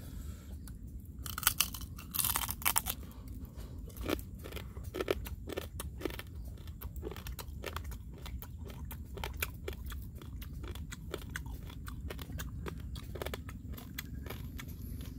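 A person biting into and chewing grilled crab, the shell crunching. The loudest crunches come about one and a half to three seconds in, followed by steady chewing with many small crackles.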